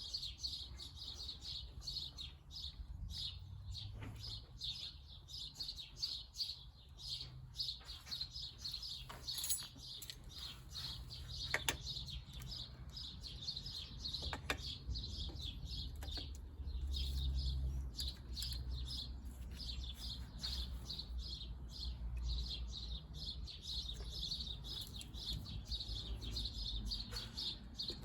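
Small birds chirping continuously in rapid, repeated short high notes, with a few sharp clicks and a low background rumble.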